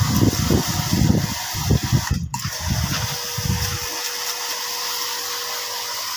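A steady spraying hiss, with irregular low rumbling through the first four seconds and a brief cut-out a little over two seconds in.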